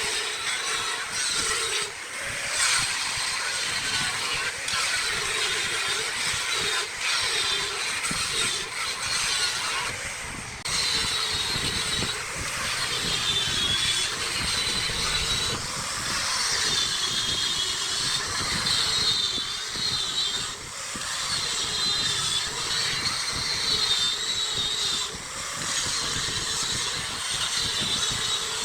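Wood lathe running with a turning tool cutting the spinning wood: a steady, hissing, scraping noise with a wavering high whine, interrupted by brief dips as the tool is lifted.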